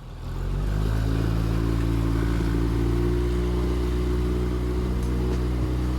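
Small outboard motor running, rising a little in pitch over the first second and then holding a steady speed.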